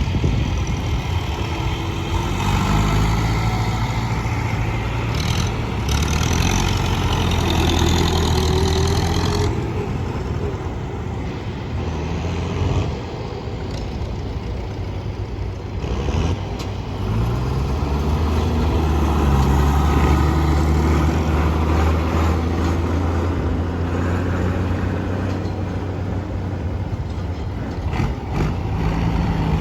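Vintage tractor engines running steadily, with the engine note rising several times as the throttle is opened.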